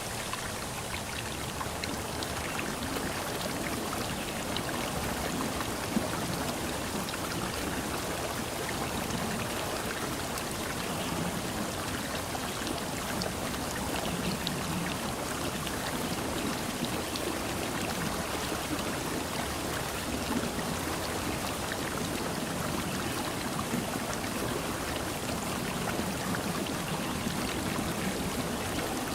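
Steady, even rush of running or falling water in a forest ambience, with a few faint drop-like ticks.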